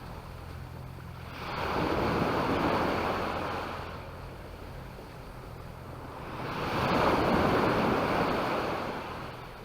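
Small sea waves breaking and washing up a beach. Two surges arrive about five seconds apart, each swelling and then fading over a couple of seconds.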